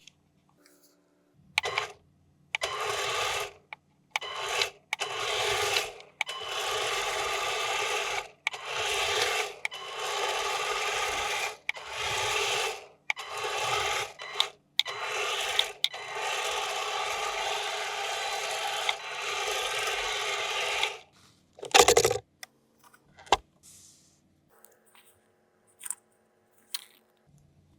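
Toy packaging being scraped and rubbed in a string of separate noisy strokes, each half a second to two seconds long, with one long stroke of about five seconds. A single sharp knock comes near the end.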